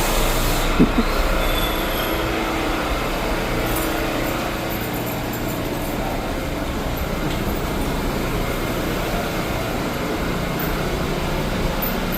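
Steady rumble inside an R179 subway car on the move. There is a short hiss right at the start and a light knock about a second in.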